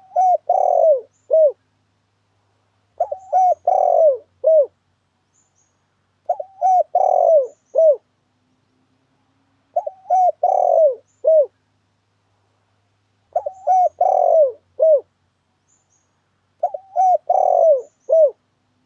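Spotted dove (tekukur) cooing a lure call. A short phrase of four or five coos, the middle one longest, repeats about every three seconds, six times, with faint high chirps alongside each phrase.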